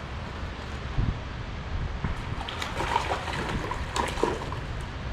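A hooked brown trout splashing at the surface over steady flowing river water, in short irregular splashes, most of them in the second half.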